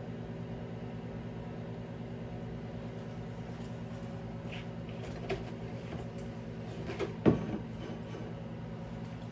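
A few knocks and clunks of items being handled and set down in a refrigerator, the loudest about seven seconds in, over a steady low hum.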